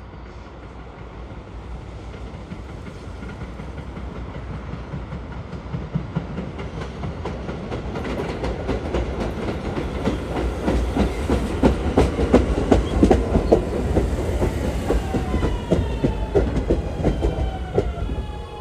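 Kawasaki R211S electric train coming in, growing louder, with a quick run of wheel clicks over the rail. From about three-quarters of the way in, a whine falls steadily in pitch as the train slows for the station stop.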